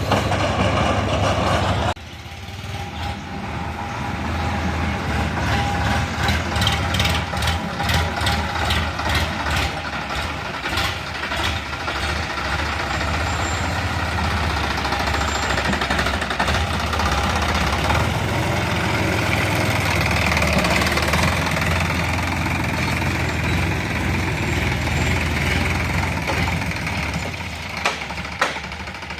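Tractor diesel engine running steadily, with a rapid clatter through the first half. The sound changes abruptly about two seconds in.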